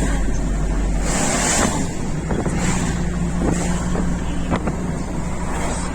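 Truck cab noise while driving: steady engine and road drone with some wind, its low rumble shifting about a second in, with a few faint clicks.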